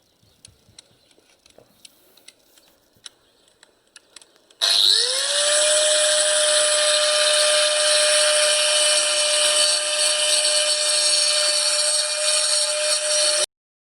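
Small angle grinder with a diamond-dust disc, faint handling clicks and then switched on about a third of the way in, spinning up to a steady high whine over a harsh grinding hiss as it cuts out the grout between floor tiles. The sound breaks off for a split second near the end.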